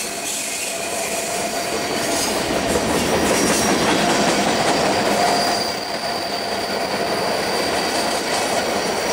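Freight train cars rolling past on the rails: a steady rumble and clatter of wheels on track, with a faint thin squeal from the wheels, a little louder through the middle of the passage.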